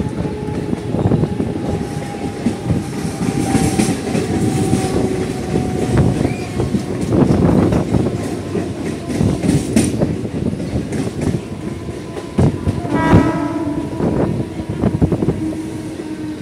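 Mumbai suburban electric local train running, heard from its open doorway: wheels rattling over the rails, and a whine that slowly falls in pitch over the first several seconds. A short horn blast sounds about three-quarters of the way through.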